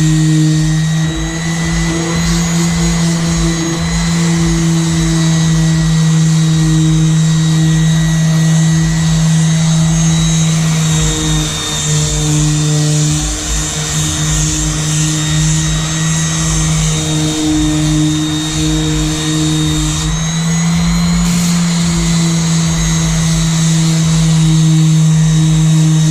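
Electric sander running steadily on a boat hull, with a constant motor hum and a thin high whine.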